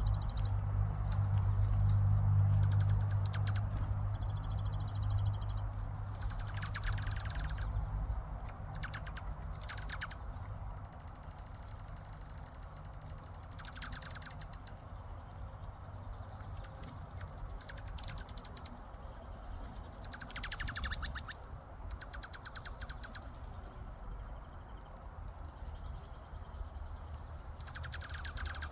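Birds giving short trills, each a quick run of rapid repeated notes, again and again at irregular intervals. A low rumble underneath is loudest in the first few seconds, then fades.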